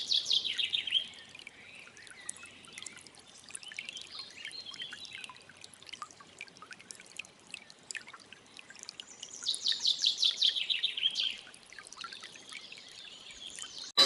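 Birds calling: two rapid runs of high, quick chirps that fall in pitch. One comes at the start and one about nine seconds in, with scattered fainter chirps between them.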